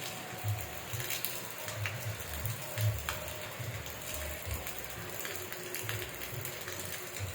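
Rain falling steadily, with many sharp close drops ticking and tapping on a surface and irregular low thuds underneath.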